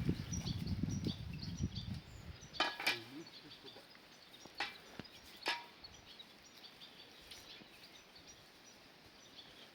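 Quiet outdoor background with low rustling at first, then three sharp knocks a second or two apart, and faint high chirps throughout.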